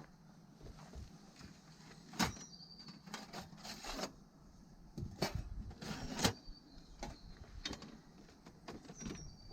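Irregular knocks, clicks and rustles of something being handled at a woodland camp, the loudest about two, five and six seconds in. A bird's short falling chirp repeats several times.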